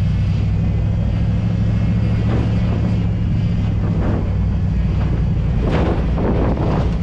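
Old Ford F-250 pickup driving along a road, heard from its open bed: a steady low drone of engine and road noise.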